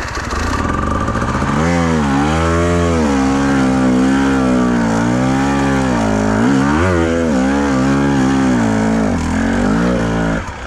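Enduro motorcycle engine revving hard, its pitch rising and falling over and over as the throttle is worked; the revs drop away near the end.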